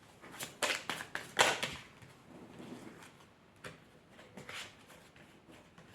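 Paper handling: a run of short rustles and taps, the loudest about a second and a half in, with two more near the end, typical of oracle cards or guidebook pages being handled.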